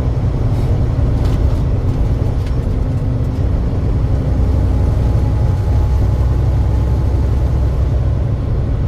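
Steady low rumble of a truck on the move, engine and road noise running evenly.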